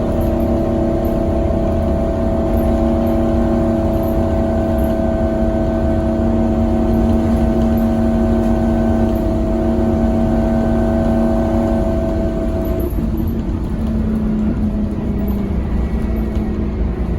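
Scania K270UB6 bus's five-cylinder diesel pulling steadily under load with a constant whine. About thirteen seconds in, the engine note drops away.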